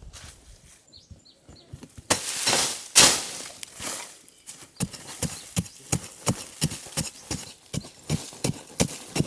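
Two loud, noisy rushes about two to three seconds in, then steady rhythmic knocking at about three knocks a second.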